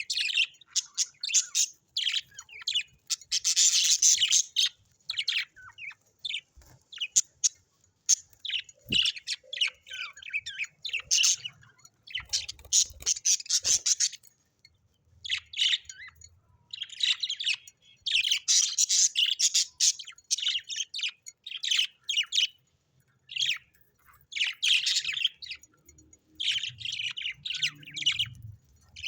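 Birds chirping and chattering in rapid high-pitched bursts, with short pauses between clusters.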